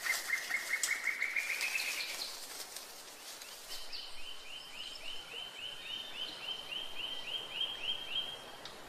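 A bird calling in the forest: a rapid series of short notes that climb slightly in pitch and stop about two seconds in, then from about four seconds in a second series of short downslurred notes, about four a second, over faint background hiss.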